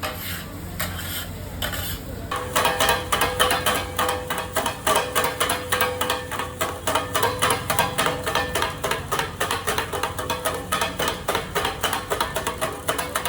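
Kothu parotta being chopped on a hot tawa with two flat metal spatula blades: rapid, rhythmic metal-on-metal clanging. A few scattered strikes at first, then a steady run of fast chops, about five or six a second, from about two seconds in, with a ringing note under the strokes.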